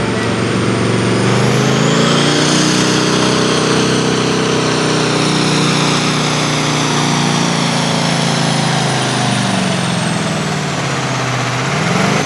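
Diesel farm tractor under full throttle, pulling a weight-transfer sled. The engine note climbs over the first couple of seconds with a high whistle rising alongside it, then slowly sags as the load builds, and picks back up near the end.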